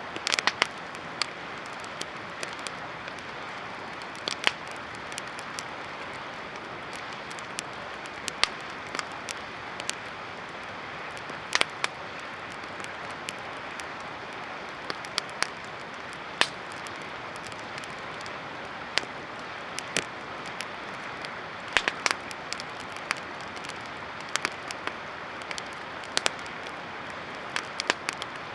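Campfire burning with irregular sharp crackles and pops over a steady rushing hiss.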